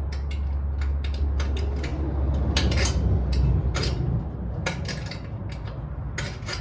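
Hand tools clinking and clicking against metal bicycle parts as they are worked loose, many short sharp clicks over a low steady hum.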